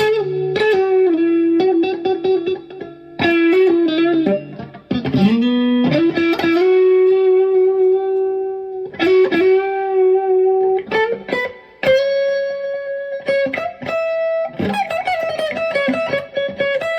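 2002 Squier 20th Anniversary Affinity Stratocaster electric guitar with single-coil pickups, played as a slow lead line. Single notes are held and sustained, with string bends gliding up in pitch around four to six seconds in.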